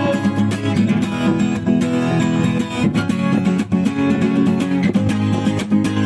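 Acoustic guitar strummed rhythmically in an instrumental break of a song, steady chords with quick, frequent strokes.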